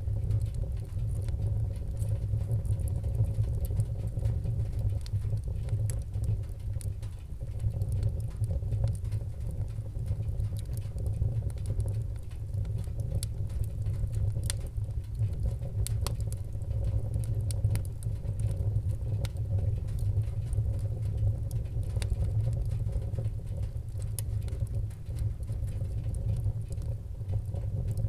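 Fire burning in a fireplace: a steady low rumble of flames with scattered sharp crackles and pops throughout.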